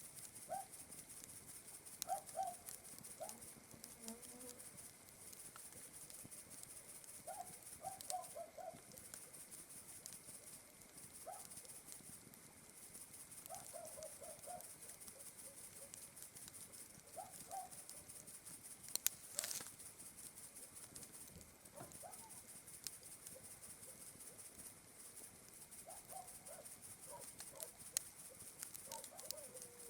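Faint campfire crackling, scattered small snaps with one loud pop about 19 seconds in, over a steady high chirring of night insects. Short chirping calls from an animal come in little groups of two to four notes every few seconds.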